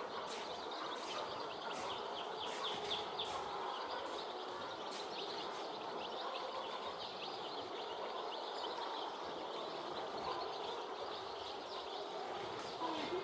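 Young chicks peeping in a poultry house, many high cheeps overlapping in a steady chorus. There are faint clicks in the first few seconds and a lower call near the end.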